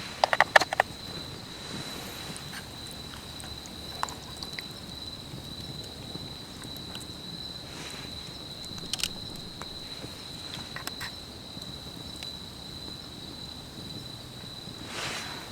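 An insect's steady, high, unbroken buzz, with a quick cluster of sharp clicks or knocks in the first second and a few single clicks later.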